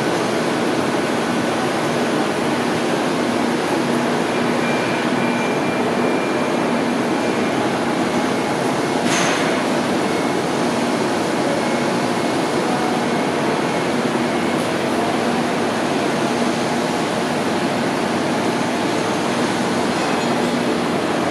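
Blanchard 22K-42 vertical rotary surface grinder running: a steady, even mechanical noise with a low hum under it, and a brief rush of hiss about nine seconds in.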